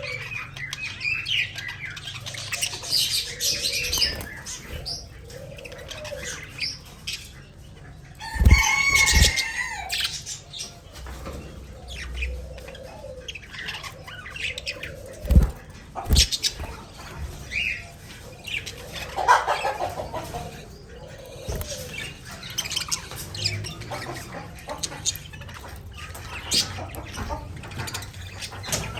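Pet budgerigars chirping and chattering, with wing flutters and scattered clicks. A few short thumps stand out, twice about eight seconds in and twice about fifteen seconds in.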